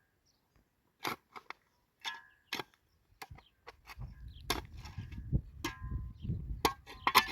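A series of sharp, irregularly spaced knocks, some with a brief ring, joined by a low rumble from about four seconds in.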